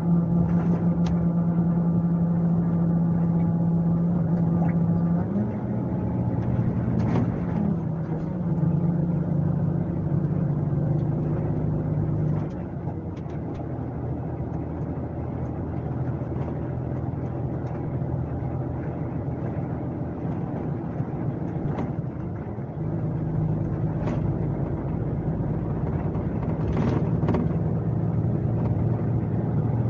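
Scania K370C coach's diesel engine (an inline six) running on the move, a steady drone. It shifts pitch briefly about five seconds in, drops lower and quieter about twelve seconds in, then pulls harder again about twenty-three seconds in, following the load and gear changes.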